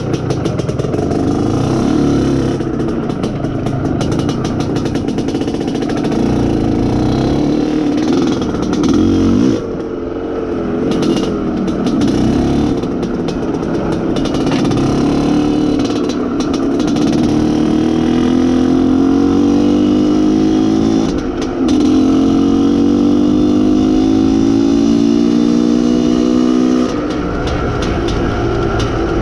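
IZh Planeta Sport motorcycle's single-cylinder two-stroke engine under way, the revs rising and falling, then climbing steadily in pitch twice in a row with a short drop between, and falling back near the end. The engine is being run in after a rebuild and is bedding in.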